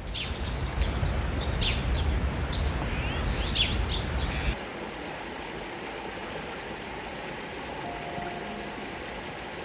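Small birds chirping several times in quick short calls over a low outdoor rumble; about four and a half seconds in the rumble drops away, leaving a steady, quieter rushing background.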